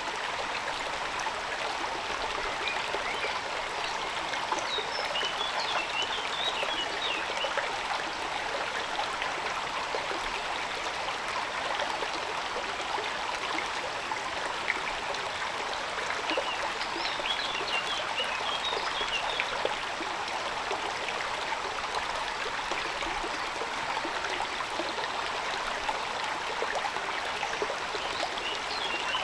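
Steady rain falling, an even hiss of many drops. A bird chirps in three short runs of high notes.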